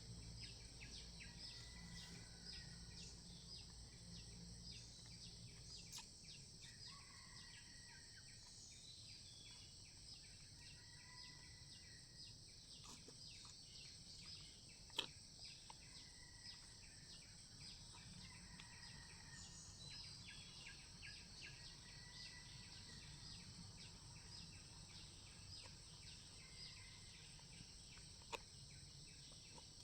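Faint forest ambience: a steady high-pitched insect chorus, with short whistled bird calls repeating every few seconds. There are two sharp clicks, one about halfway through and one near the end.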